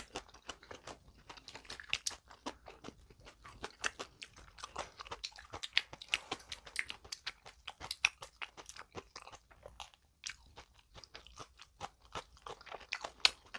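Chewing of a bread bun filled with sausage and salad: many short, irregular crunches and mouth clicks, with the crisp crunch of the salad vegetables.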